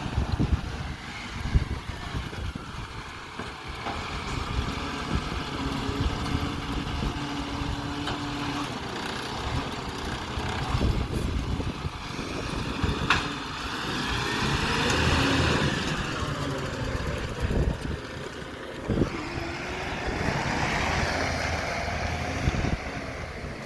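Garbage truck working close by: a steady low engine rumble that swells up and falls back in pitch twice in the second half, with a sharp knock partway through.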